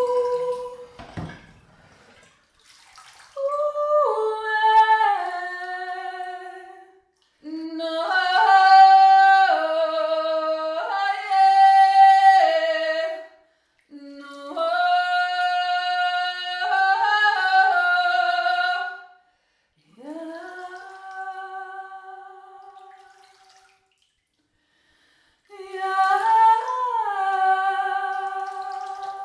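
A woman singing wordless improvised phrases, holding notes and stepping between them, in five phrases with short pauses between them. The fourth phrase fades out.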